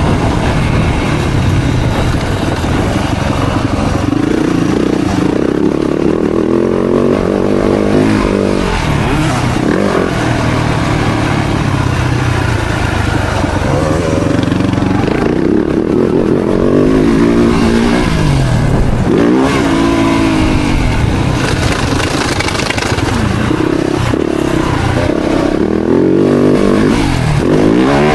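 Yamaha YZ-F four-stroke motocross bike engine under hard riding, its pitch climbing and dropping over and over as the throttle opens and closes and the gears change.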